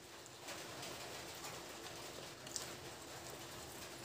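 Close-miked eating sounds: a person chewing a mouthful of rice and curry, with small wet mouth clicks, and fingers working the rice on a steel plate near the end.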